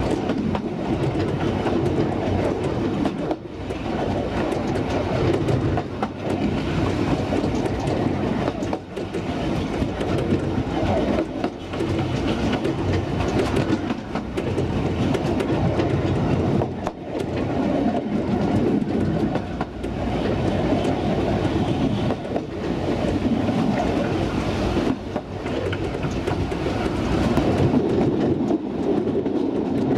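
Narrow-gauge train coach rolling along the track at speed: a continuous rumble of steel wheels on rail with scattered clicks and brief dips, heard from an open veranda.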